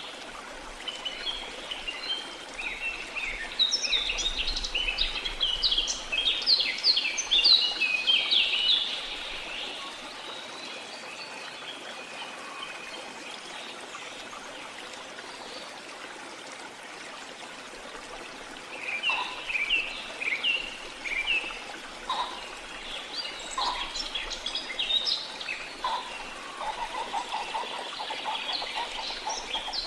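Birds chirping and calling in quick runs of short notes over a steady rush of running water. The birdsong comes in two busy spells, with a stretch of only water in the middle.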